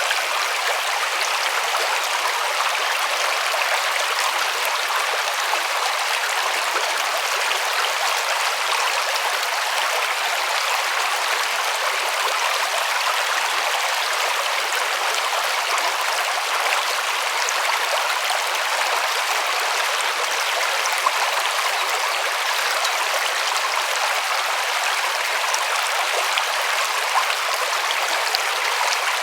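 River water flowing over rocks, a steady rushing and splashing.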